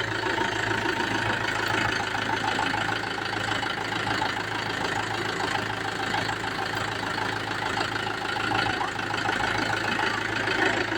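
New Mahindra tractor's diesel engine idling steadily.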